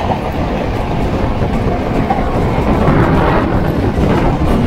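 Electric suburban local train passing close on the adjacent track, heard from inside another moving train: a loud, steady rush of wheels on rails.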